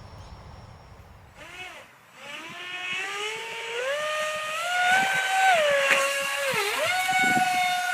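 Model electric ducted fan jet's fan whine spooling up about two seconds in, rising in pitch for a take-off. It dips twice in pitch, then holds high and steady.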